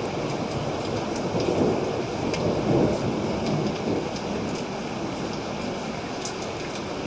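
Steady heavy rain with a low rumble of thunder swelling and fading through the first half, and scattered drops ticking on a surface.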